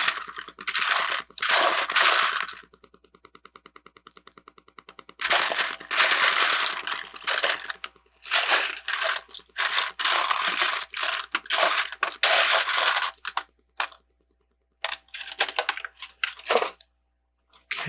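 Loose plastic Lego bricks clattering as a hand rummages through a sorted pile, searching for a missing piece, in repeated bursts with a few brief pauses.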